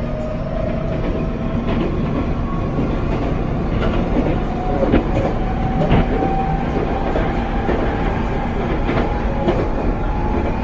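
Meitetsu electric commuter train running at speed, heard from inside the passenger car: a steady rumble of wheels on the rails with a few steady tones running through it and scattered clicks from the track.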